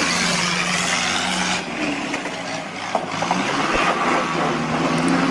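A vehicle engine running with a steady low hum under a broad rushing noise. The noise drops back about a second and a half in, and there is a single sharp knock about three seconds in.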